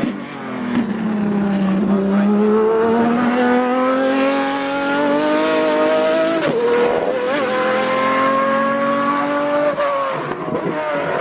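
IMSA GTP prototype race car engine accelerating at full throttle, its pitch climbing steadily through the gears, with a quick upshift about six and a half seconds in and another near the end.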